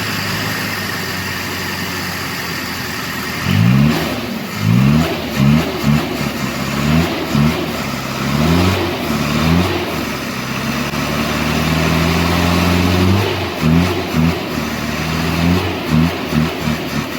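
Toyota 2B four-cylinder diesel engine, test-run after its injectors were repaired. It idles steadily for a few seconds, then is revved over and over with quick throttle blips and one longer held rev in the middle.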